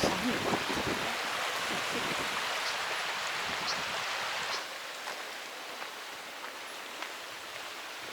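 Wind blowing outdoors, a steady rushing hiss with gusty rumble on the microphone, which drops sharply to a softer hiss about four and a half seconds in.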